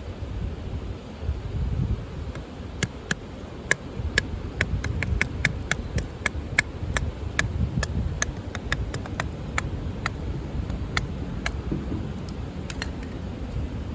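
Irregular sharp clicks and snaps, roughly two a second, over a low steady rumble like wind; the clicks start a few seconds in and thin out near the end.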